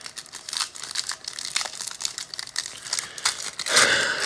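Crinkling packaging and quick irregular clicks as trading cards and their wrappers are handled.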